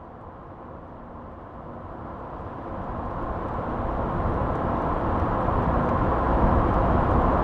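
Sound effect of a car approaching: a steady rush of engine and tyre noise that grows steadily louder over several seconds, then cuts off abruptly when playback is stopped.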